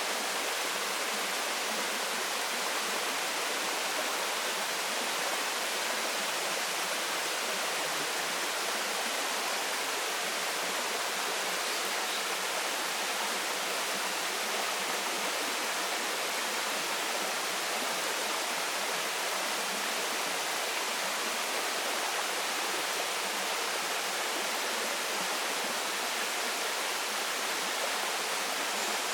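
Waterfall splashing steadily, a continuous even rush of falling water with no pauses or changes.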